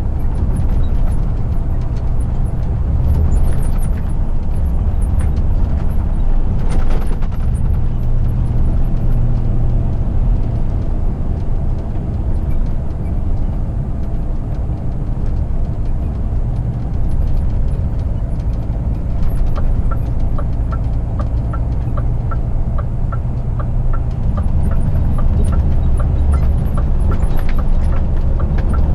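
Scania R450 truck's 13-litre inline-six diesel running steadily under way, heard from inside the cab with road noise. About two-thirds of the way in, a regular ticking starts, at about two to three ticks a second.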